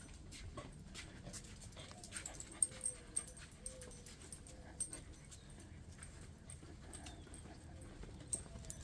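Dog whining softly in short, wavering whimpers, with scattered light clicks and taps.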